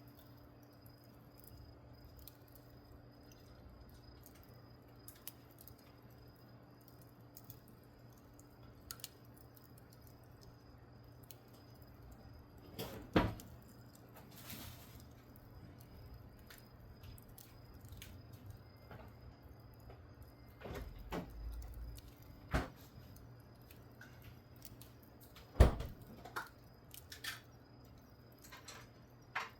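Wood fire burning with scattered small crackles and ticks, and a few louder sharp pops, the loudest about 13 seconds and about 26 seconds in.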